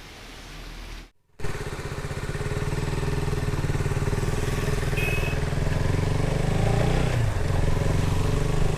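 KTM Duke 200's single-cylinder engine running as the motorcycle is ridden, cutting in abruptly about a second in. The engine note is steady, with a brief dip and recovery in pitch about seven seconds in.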